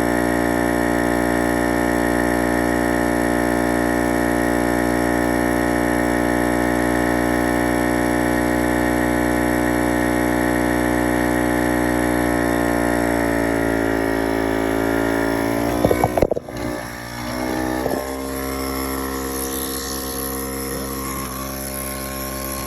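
Air pump of a smoke-type vacuum-leak detection machine running with a loud, steady hum. About thirteen seconds in, its pitch sags, a few sharp knocks follow, and then it settles into a different steady hum.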